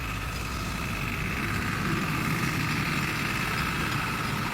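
Engine of an agricultural transport vehicle (công nông) running steadily at idle, a continuous low rumble with a steady higher whine over it that grows a little louder about halfway through.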